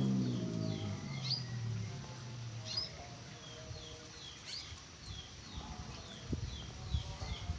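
Caged birds chirping: a steady run of short, repeated falling chirps with a few louder rising calls. A low drone dies away in the first two seconds, and a few soft thumps come in the second half.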